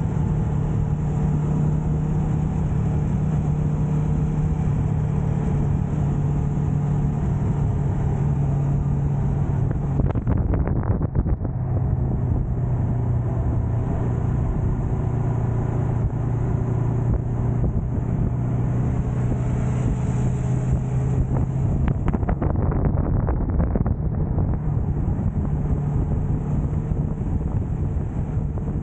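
Motorcycle engine running while riding, with wind buffeting the microphone. The engine note shifts twice, about a third of the way in and again about two thirds in.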